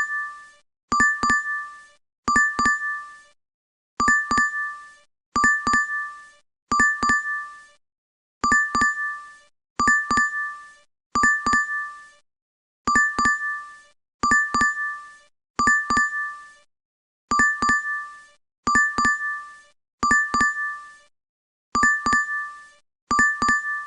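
DoorDash app notification chime: a quick double ding, repeating over and over about every one and a half seconds.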